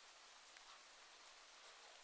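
Faint, steady hiss of a rain sound recording.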